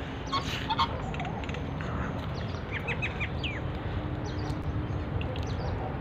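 Birds calling over a steady outdoor background hiss, with a quick run of about four short chirps around the middle and fainter calls scattered through. A faint low hum comes and goes underneath.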